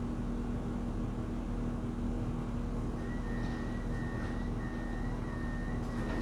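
Steady low rumble and hum of a vehicle in motion, with a faint, broken high tone joining about halfway through.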